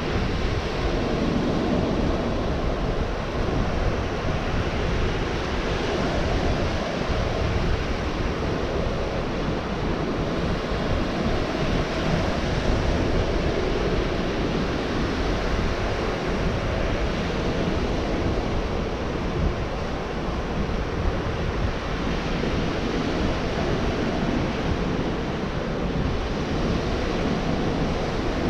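Gulf of Mexico surf breaking and washing onto the beach in a continuous rush that swells and eases, with some wind on the microphone.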